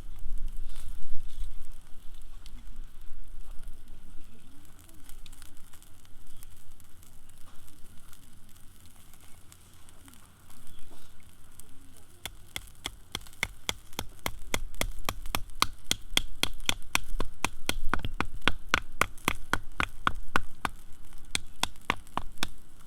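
Campfire burning with wood crackling and popping. The pops grow dense and sharp about halfway through.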